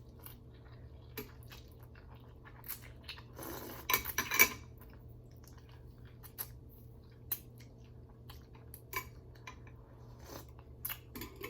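Someone eating ramen noodle soup close to the microphone: scattered light clicks of utensils against a bowl and chewing, with a louder stretch of sound about four seconds in.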